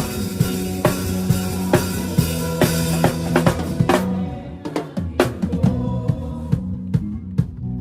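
Drum kit played live in a worship song, with kick, snare and rimshot strokes over the band's held notes. About four seconds in the cymbal wash drops away and the playing thins to sparser hits.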